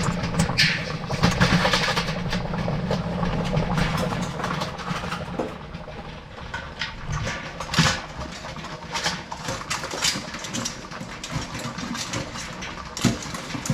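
Crab-steaming pot at the boil on its burner giving a low steady rumble, heaviest in the first few seconds, with sharp clicks and knocks as live blue crabs are grabbed out and handled.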